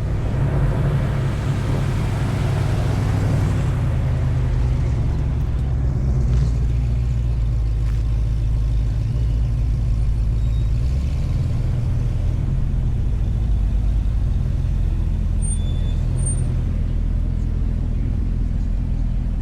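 Car engine idling close by: a steady, loud, low rumble that holds with only small changes.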